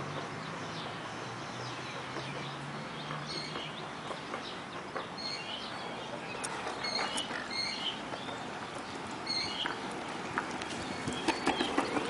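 Small birds chirping in short scattered calls over steady outdoor background noise, with a faint low hum in the first few seconds. Footsteps on a paved path begin near the end.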